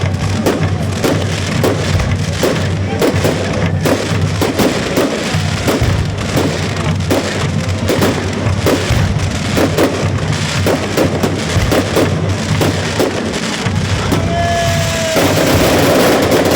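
Fireworks display: rapid crackling of bursting shells, with a whistling tone and a denser crackle about three-quarters of the way through, over music playing along with the show.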